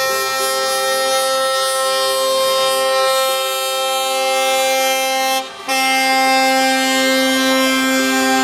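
Truck air horns sounding together, a chord of several steady pitches held almost without a break. They cut out for a moment about two-thirds of the way through, then come straight back.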